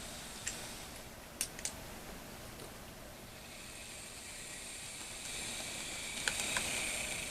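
A few light plastic clicks, then from about three seconds in the faint, steady high whine of an HO scale model locomotive's small electric motor running on the track.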